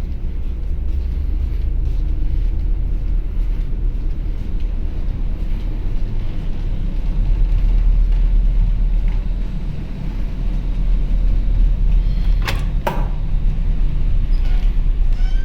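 Steady low rumble aboard a ferry under way, with two sharp knocks close together near the end.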